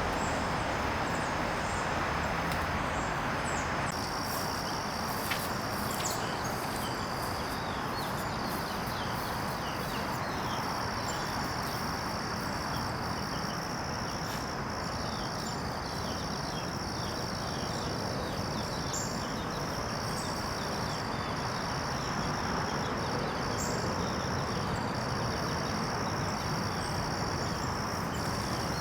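Insects singing in a steady high-pitched chorus that comes in about four seconds in, with a fainter pulsing trill above it, over a steady outdoor background hiss.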